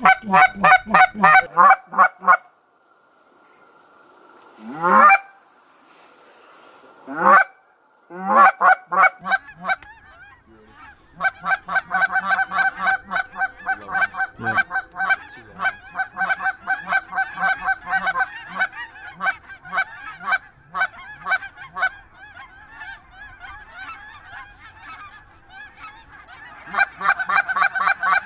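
Geese honking: a fast, even run of calls, a short lull with two rising drawn-out calls, then steady rapid honking that grows louder near the end.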